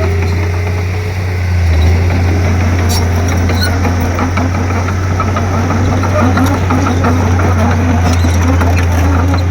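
Crawler bulldozer's diesel engine running steadily with a loud, even low drone, a Komatsu D31P at work pushing soil.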